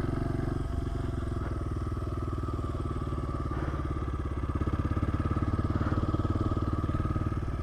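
Honda CRF100 pit bike's small single-cylinder four-stroke engine running at low, steady revs with a fast even pulse, getting a little louder midway.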